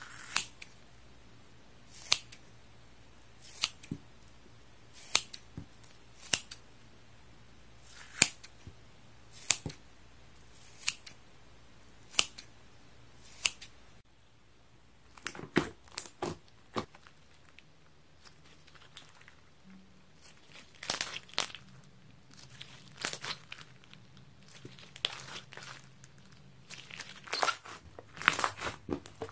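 Scissors snipping through high-elasticity sponge, one sharp snip about every second and a half. About halfway through the snipping stops and gives way to irregular clusters of crackling, crinkling sounds.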